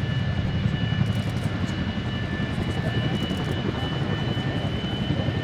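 Kawasaki EC-1's twin Pratt & Whitney JT8D turbofan engines running at ground idle during ramp-in: a steady low rumble under a steady high whine.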